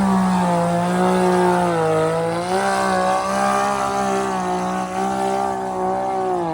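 Mud-racing ATV engine held wide open at high revs, a steady high engine note that sags slightly about two seconds in and then picks back up.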